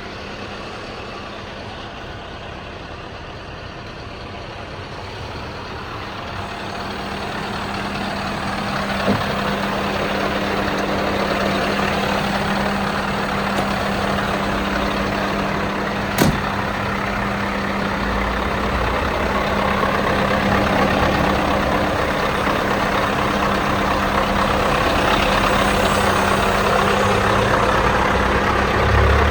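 Scania R560's V8 diesel engine running steadily, getting louder about a third of the way in. Two short sharp clicks, one about a third in and one about halfway.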